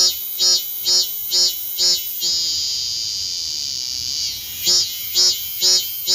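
Cicadas singing: a loud, high buzzing song in rhythmic pulses about two a second, which runs into one continuous buzz for about two seconds midway, then breaks back into pulses.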